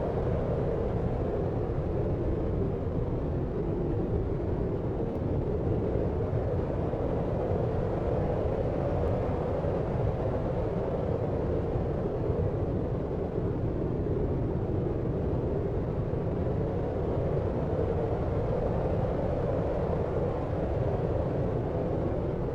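Steady deep noise, a low, muffled hiss with its weight in the bass and low middle and little treble, swelling and easing slightly every several seconds.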